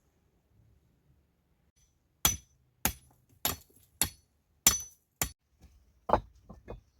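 Repeated striking on something hard: six sharp, ringing blows about two-thirds of a second apart, then three duller knocks near the end.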